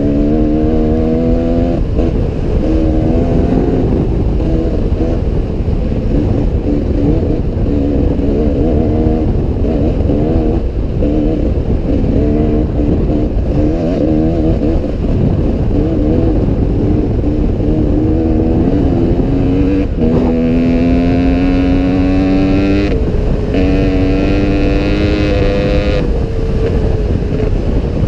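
Enduro dirt bike engine running under load on a trail, its pitch rising and falling with the throttle, with two longer rising revs near the end.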